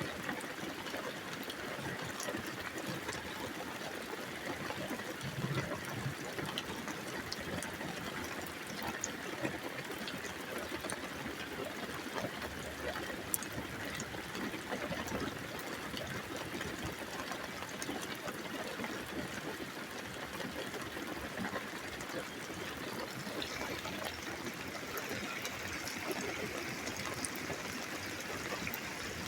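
Steady rain during a thunderstorm, with water trickling and running, and scattered drops ticking.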